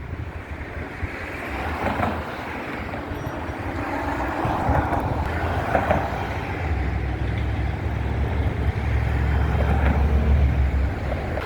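Wind rumbling on the microphone mixed with city traffic noise, a heavy low rumble that grows stronger about halfway through.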